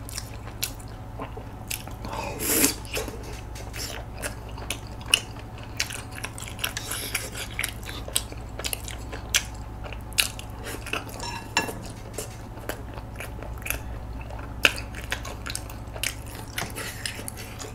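A person chewing chewy tteokbokki rice cakes in spicy sauce, with wet mouth sounds and scattered light clicks of wooden chopsticks against the metal pan. A steady low hum runs underneath.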